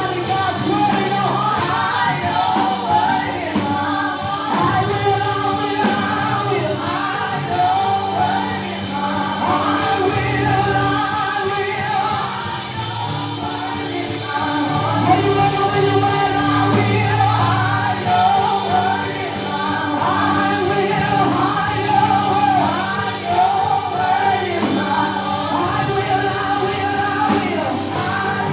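A gospel choir singing over sustained low instrumental notes, the voices wavering in melismatic runs.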